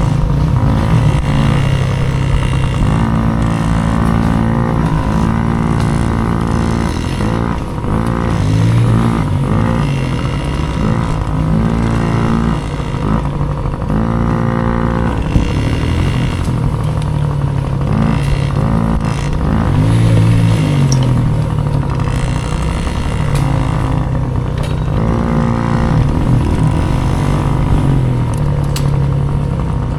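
Small dirt bike engine revving hard, its pitch climbing and dropping again and again as the rider works the throttle and gears over rough terrain, with one sharp knock about halfway through.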